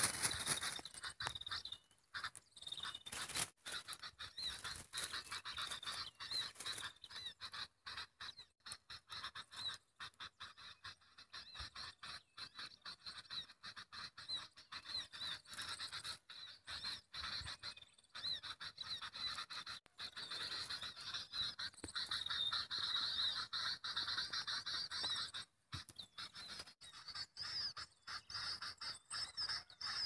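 Small birds chirping: a quick, high-pitched twittering repeated over and over.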